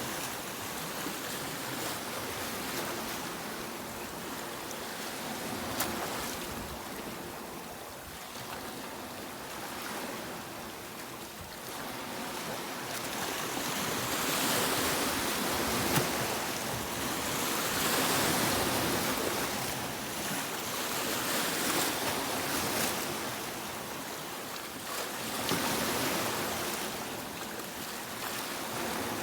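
Sea waves breaking and washing on a beach, a steady rush of surf that swells and fades in slow surges every few seconds.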